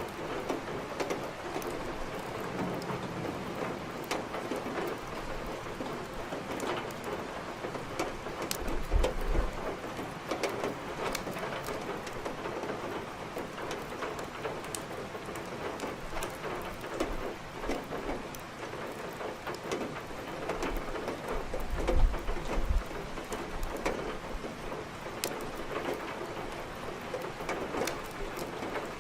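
Steady rain with scattered sharp crackles of burning firewood in a fireplace. Low rumbles swell up twice, about nine and twenty-two seconds in.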